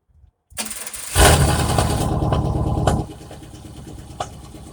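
A straight-piped 5.7 Vortec V8 with no cats or muffler is cold started. The starter cranks briefly, the engine catches about a second in and runs loud for about two seconds, then drops to a quieter idle. The idle carries an occasional knock-like thump from a number 2 cylinder misfire, which sounds like a rod knock.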